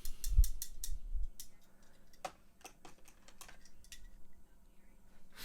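A run of small sharp clicks and light knocks, thickest in the first second and a half and joined by two dull low thumps, then scattered clicks: diecast toy trucks being handled and set down.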